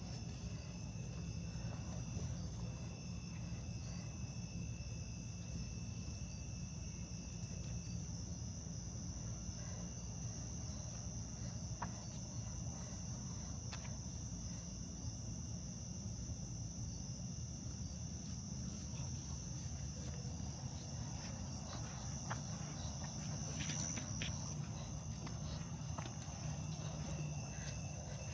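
Night-time insect chorus, crickets trilling as a steady high ringing, over a low steady rumble with a few faint ticks.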